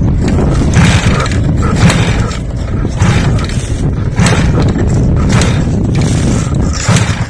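A motor running loudly and steadily, with irregular clattering knocks about once a second.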